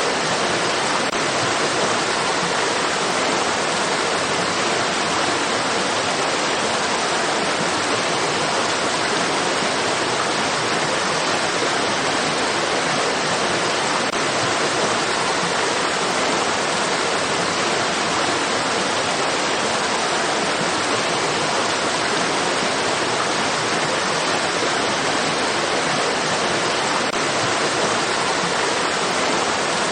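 Rushing stream water: a steady, dense hiss of running water with no breaks or changes.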